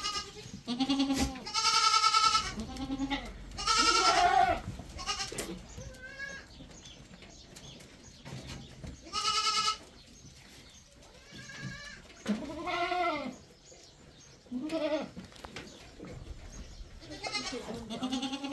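Goats bleating again and again, each call up to about a second long with a wavering, quavering pitch, spread through the whole stretch.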